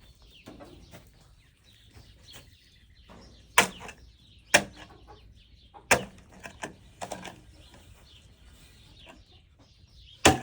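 A hand tool striking something hard: five sharp chopping knocks, unevenly spaced about a second or more apart, the last near the end. Chickens cluck and chirp faintly between the strikes.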